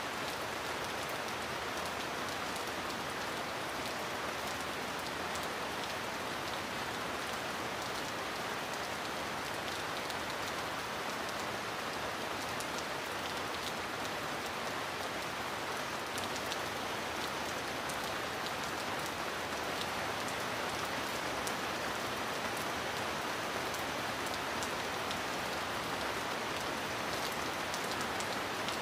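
Steady heavy rain: a dense, even hiss with individual drops ticking through it.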